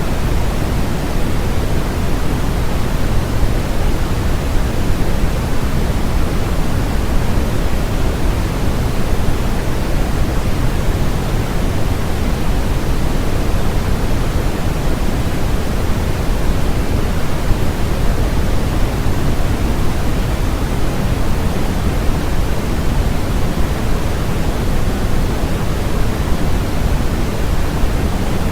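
Steady electronic noise of the white-noise kind: a constant, even rushing hiss that stays loud and never changes, heavier in the low end than in the treble.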